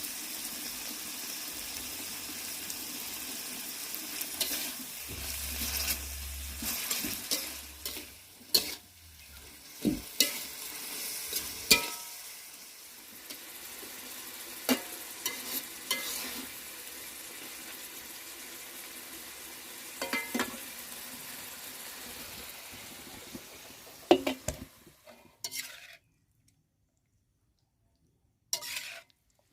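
Food sizzling in a frying pan while being stirred, with a spatula knocking against the pan now and then. The sizzle cuts off near the end.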